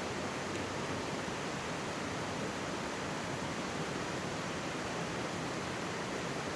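Mountain stream rushing steadily beside the microphone, an even wash of water noise. A campfire gives a single faint crackle about half a second in.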